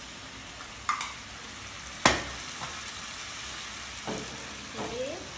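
Blended shallot paste, ground with a pinch of dried anchovies, frying in hot oil in a wok with a steady sizzle. A sharp knock comes about two seconds in, and a smaller one about a second in.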